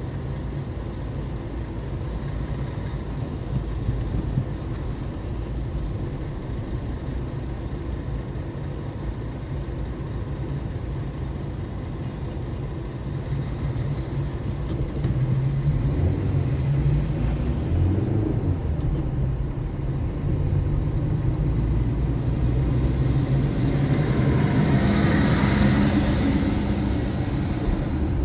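Car driving through city traffic: a steady engine and road rumble that grows louder about halfway through, with the engine note rising and falling around the middle. A brighter hiss swells near the end.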